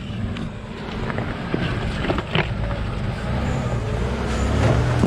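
Off-road 4x4 vehicle engine running at low speed, slowly getting louder, with scattered clicks and knocks over it.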